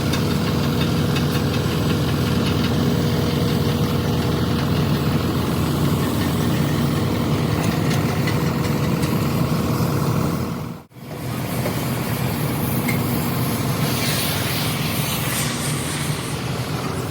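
Heavy diesel engine running steadily at idle, with a brief dropout about eleven seconds in before it resumes.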